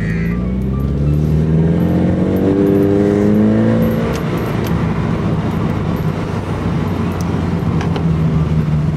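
Car engine heard through a newly fitted aftermarket Valvetronic exhaust. It pulls up in pitch for about four seconds as the car accelerates, then drops back to a steady, loud drone.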